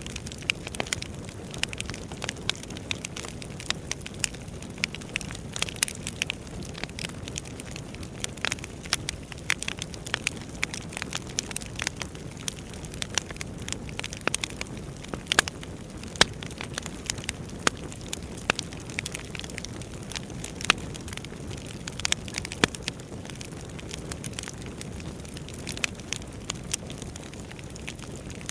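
Wood fire burning: firewood logs crackling and popping irregularly over a steady low rush of flames.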